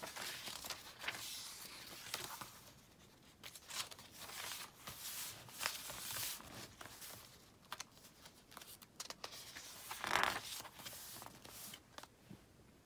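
Paper pages of a handmade junk journal being handled and turned: irregular rustling and crinkling with small taps, and one louder rustle about ten seconds in.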